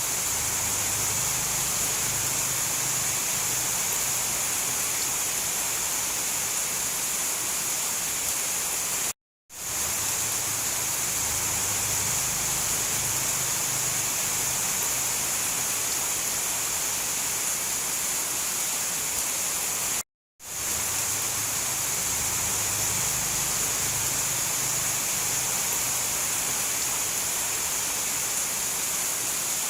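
Steady hiss of heavy rain, a looped recording that drops out to silence for a split second twice, about 9 and 20 seconds in, as the loop restarts.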